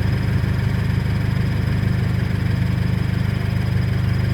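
Scion FR-S's flat-four engine idling steadily, with a faint steady high tone above the low engine note.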